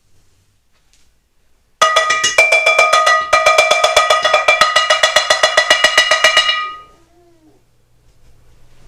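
Rapid, loud metallic clanging, about eight strikes a second with a bright ringing tone, starting suddenly about two seconds in and stopping about five seconds later, with a short stumble partway through. A faint whimpering voice follows near the end.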